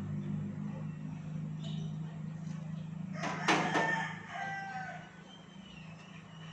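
A rooster crowing once, about three seconds in, over a steady low hum.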